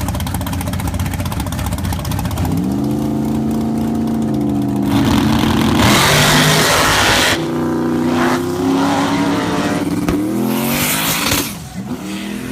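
Drag race car engine running with a rough, rapid firing beat, then revving up about two seconds in and holding at high revs. Loud rushing noise cuts in about five seconds in and again near the end.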